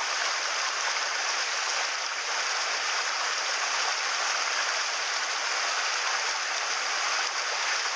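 Mountain stream water rushing steadily over rocks, an even hiss of flowing water.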